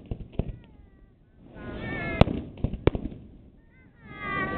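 Aerial fireworks shells bursting: a string of sharp bangs, the loudest about two seconds in, over a swelling rumble, with short gliding high tones mixed in.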